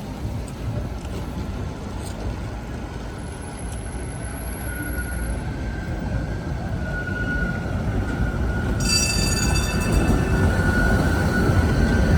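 Tatra tram approaching and running past, its low rumble growing steadily louder. A steady whine comes in a few seconds in, and a higher-pitched wheel squeal joins about nine seconds in.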